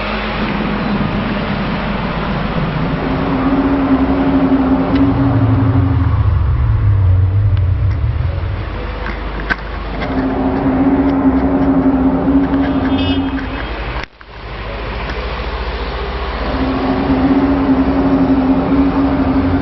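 Unexplained 'strange sky sound': long, low, drawn-out tones, each about three seconds long, repeating every six seconds or so over a steady low rumble. There is a brief break about two-thirds of the way through.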